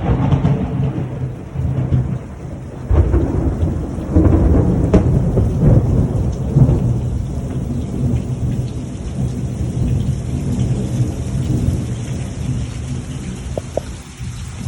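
A long roll of thunder rumbling in waves, swelling again about three and four seconds in and slowly dying away, with steady rain falling.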